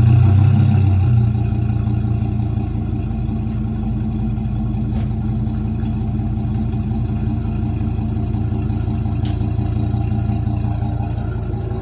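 2001 Dodge Ram's V10 gasoline engine idling through a straight-piped 3-inch exhaust with an Aero Turbine straight-through muffler, a deep steady drone. It is louder at first and settles to a steady idle about a second in, still warming up after a cold start.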